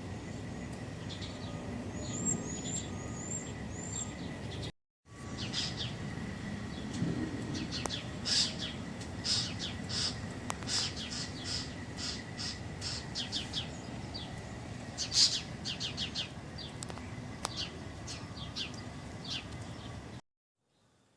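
Small birds chirping: a few short high chirps, then a long run of rapid chirps after a brief break about five seconds in.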